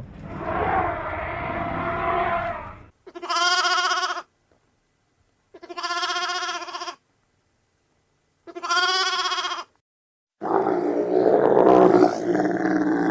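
Animal calls: a rough, grating call, then three separate drawn-out pitched calls of about a second each, spaced a second or two apart, then another long rough call near the end.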